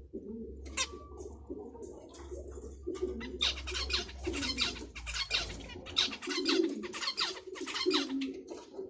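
Cage birds calling: low cooing repeats throughout while, from about three seconds in, zebra finches set up a dense, quick run of high chirping.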